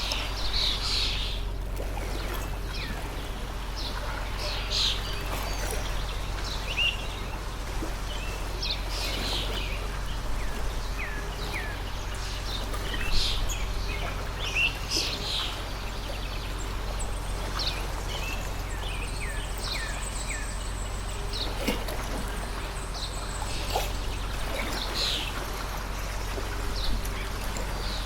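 A water stream running steadily, with small birds chirping repeatedly over it in short, high calls, several of them quick downward sweeps.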